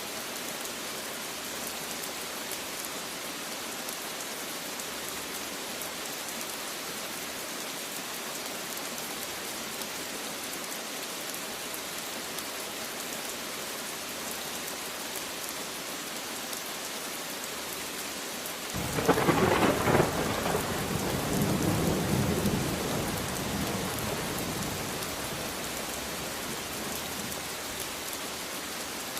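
Steady rain falling, with a clap of thunder past the middle: a sharp crack that rolls into a low rumble and fades over several seconds.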